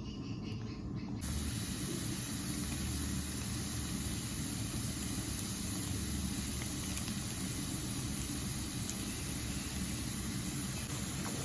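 Steady hiss that sets in about a second in and holds evenly.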